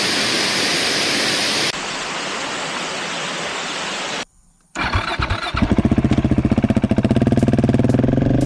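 A steady hiss for about four seconds, then a brief silence. The KTM 690 SMC R's single-cylinder engine cranks briefly, starts about five seconds in, and settles into an even, rapidly pulsing idle.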